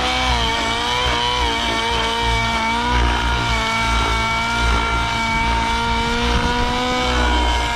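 O.S. 1.05 HZ-R nitro engine of an RC helicopter running at steady high revs, its pitch wavering for the first second and then holding even. The engine is being run to clear out after its mid and high needles were leaned two clicks.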